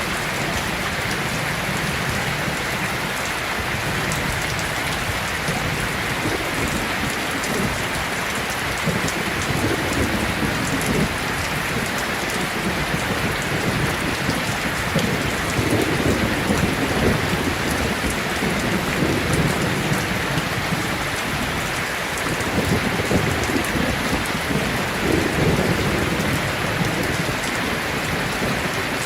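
Heavy rain falling steadily, with low rolls of thunder swelling and fading several times through the middle and near the end.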